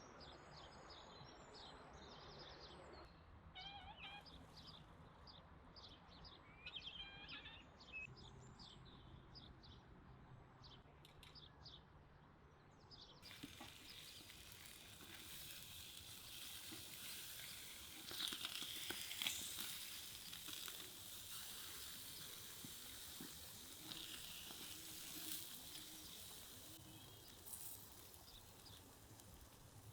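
Small birds chirping outdoors, many short calls. Around halfway the sound changes to a steady hiss with faint crackles.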